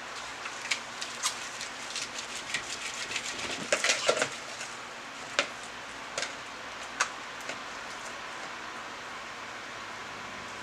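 Homemade slime being squeezed and stretched by hand, giving a run of small wet clicks and pops over a steady hiss. The pops come thickest in the first half and die away after about seven seconds.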